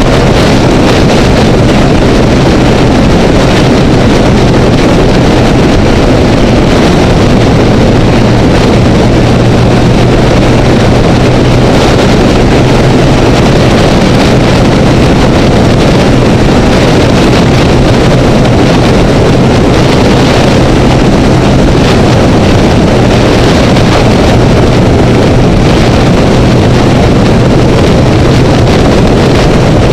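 Honda Rebel motorcycle cruising at steady freeway speed: constant loud wind rush and road noise over an even engine drone that holds one pitch throughout.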